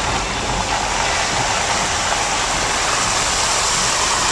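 Steady rushing noise of a car moving along a wet, flooded road in tropical-storm rain, with a low rumble underneath.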